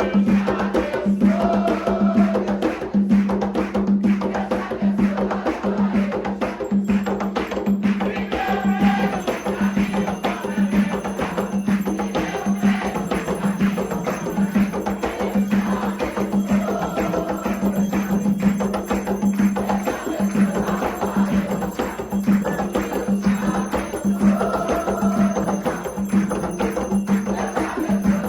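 Afro-Brazilian religious music for Xangô: a steady low drum beat about once a second under sharp strikes of a bell or wood-block pattern, with voices singing a chant in recurring phrases.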